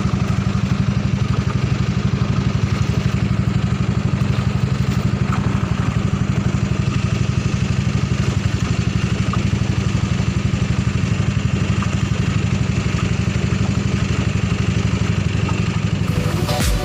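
Honda 6.5 hp single-cylinder ketinting (longtail) boat engine running steadily at a constant throttle, with a fast even chugging beat.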